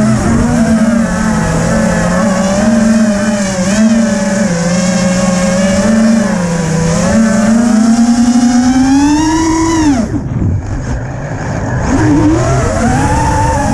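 FPV quadcopter's motors and propellers buzzing, the pitch wavering with the throttle. About ten seconds in the pitch climbs, then drops sharply as the throttle is cut; the buzz is quieter for about two seconds, then rises again as power comes back.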